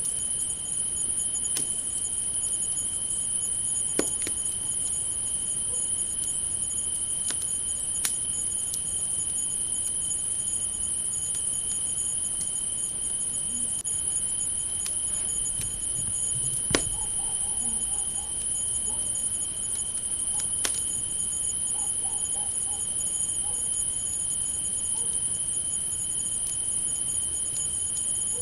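Crickets chirring in a continuous high-pitched drone, with a campfire crackling in a few sharp, scattered pops, the loudest about two-thirds of the way through.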